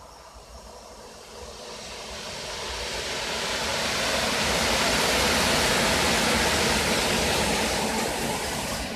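A train passing close by on the station track: rushing rolling noise that builds from about two seconds in, is loudest around the middle, and eases a little near the end.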